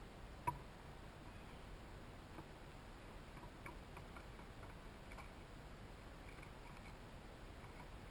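Faint, scattered ticks and taps of small birds and chipmunks at a hanging feeder, with one sharp click about half a second in, over a quiet background.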